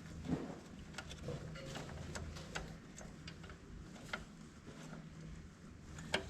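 Scattered light clicks and taps of tools and metal parts being handled, a few a second at most and irregular, over a faint steady low hum.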